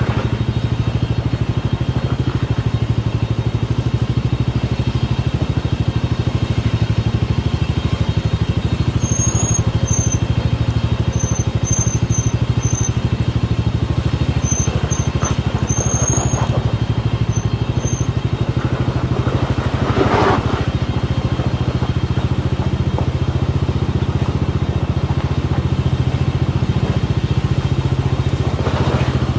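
Motorcycle engine running steadily on the move. A scattered run of short, high chirps sounds over it about a third of the way in.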